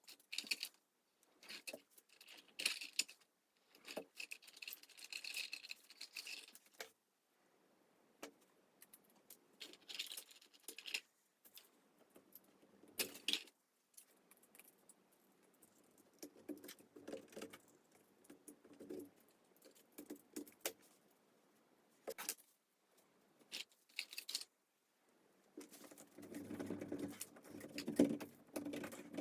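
Intermittent handling noises from small craft materials being worked by hand: clicks, rattles and rustling in short bursts with pauses, growing busier near the end.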